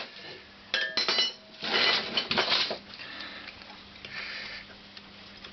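Metal parts of a Honda CX500 starter clutch clinking and rattling as they are taken apart and handled. There are a few sharp clinks with a brief metallic ring about a second in, then a denser stretch of clattering about two seconds in.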